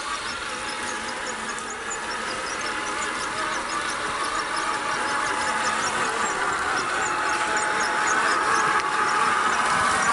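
A 1/6-scale RC Willys Jeep's electric motor and gearbox drive it along, whining steadily with a thin high tone. The sound grows gradually louder.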